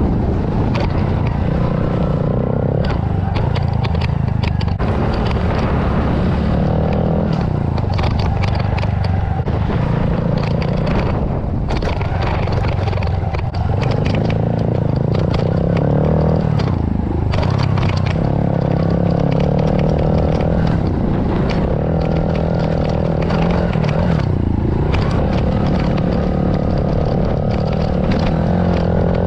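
Small single-cylinder four-stroke pit bike engine revving up and down as it is ridden around a dirt track, its pitch rising and dropping every few seconds, with frequent knocks and rattles from the bike.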